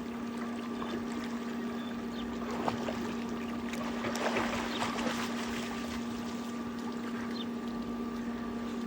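A golden retriever swimming, with water sloshing and splashing around it, busiest a few seconds in. A steady hum runs underneath.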